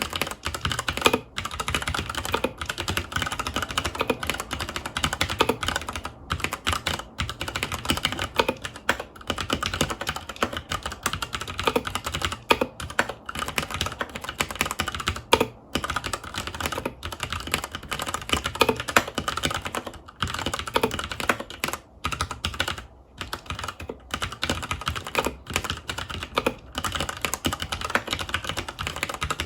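Continuous fast typing on a Filco Majestouch 2 Hakua tenkeyless mechanical keyboard with Cherry MX Brown switches, a dense run of key clicks with only brief pauses.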